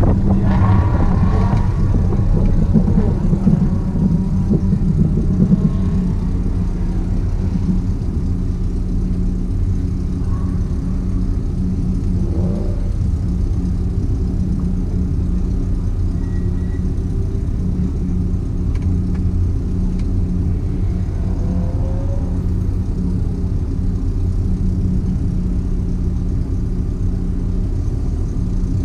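BMW E36's engine idling steadily, heard from inside the cabin, a little rougher in the first few seconds as the car rolls forward at low speed.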